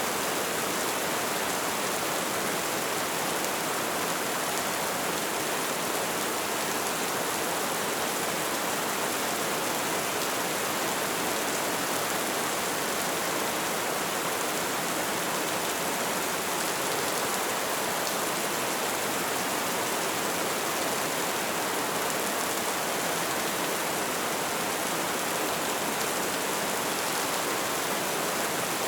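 Light rain falling, a steady even hiss with no changes.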